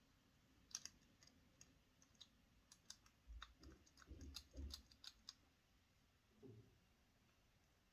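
Faint, scattered clicks and taps of small plastic toy-egg parts being handled, with a few soft low thumps in the middle and one near the end.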